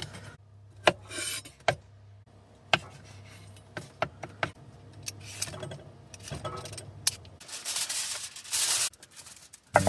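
Several sharp clicks and knocks of kitchen items being handled, then a second and a half of dense crinkling rustle near the end as aluminum foil is pulled out and spread for a foil-packet meal.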